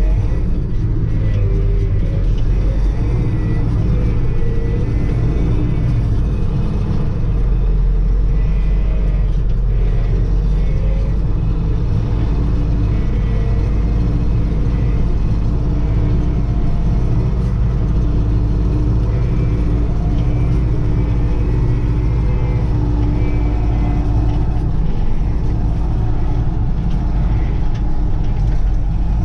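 Kirovets K-700A tractor's diesel engine running steadily, a continuous low rumble. The engine is freshly overhauled with new pistons and rings and is being run in.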